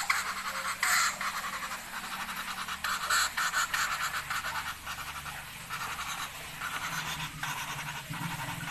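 Female common flameback woodpecker making rapid, scratchy rattling sounds in repeated bursts, the loudest about three seconds in, over a faint low hum.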